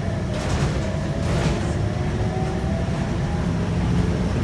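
Interior sound of a Scania K230UB bus running: the 8.9-litre five-cylinder Scania DC9 diesel gives a steady low rumble under faint gliding whine tones, with two brief higher noises about half a second and a second and a half in.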